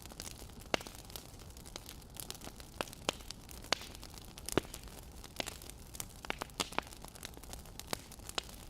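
Wood fire crackling: irregular sharp pops and snaps over a steady faint hiss.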